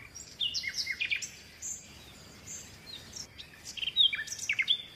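Small birds chirping and twittering: quick, high-pitched, falling chirps in bunches, busiest about a second in and again near the end.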